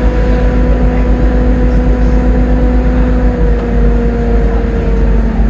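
Volvo B7TL double-decker bus under way, its driveline giving a steady whine over the engine's rumble, the pitch sinking slightly after about three seconds as the bus eases off.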